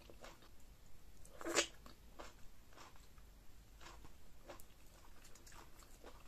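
Close-up mouth sounds of a person eating pounded yam fufu with okra and ogbono soup: wet chewing and small lip smacks, with one louder mouth noise about a second and a half in.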